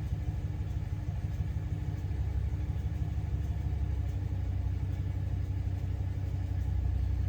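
2010 Ram 1500's 5.7-litre Hemi V8 idling steadily, heard from inside the cab, getting a little louder about two seconds in. The engine has a multiple-cylinder misfire fault.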